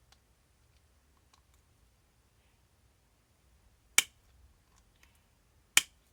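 Small parts and hand tools clicking during an RC shock teardown with needle nose pliers: faint scattered ticks, then two sharp clicks about two seconds apart in the second half.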